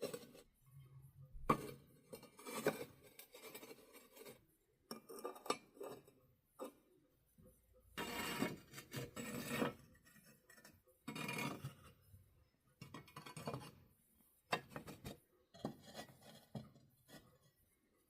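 Metal pieces clinking and scraping against each other in short, irregular bursts with quiet gaps between them.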